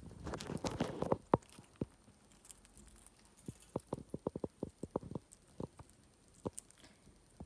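Indian ringneck parrot's beak crunching a peanut: a dense burst of crackling crunches in the first second or so, then a quick run of sharp cracks through the middle and a few more near the end.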